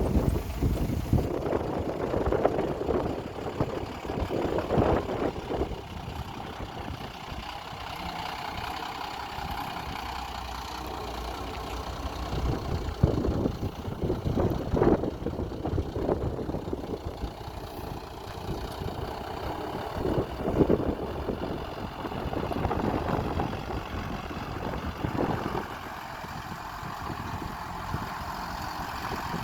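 1993 Blue Bird bus engine running at idle, a continuous rumble with uneven louder swells.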